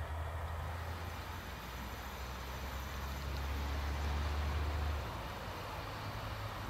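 Passenger train running along the track at a distance, a steady rolling rumble and hiss. A low hum under it cuts off about five seconds in.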